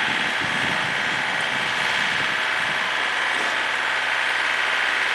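Tractor engine running steadily, loud and close, with no break.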